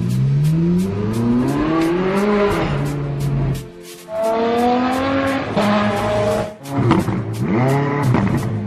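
A high-revving sports-car engine accelerating hard, its pitch climbing twice with brief breaks for gear changes, then revving up and down quickly near the end, over music with a steady beat.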